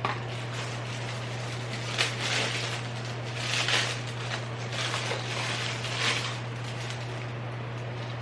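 Several short bursts of rustling and handling as things are unpacked, over a steady low hum.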